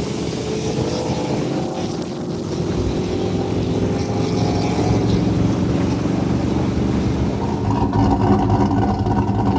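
Truck engine running loudly, its pitch gliding slightly; near the end the engine note steps up and climbs as it revs.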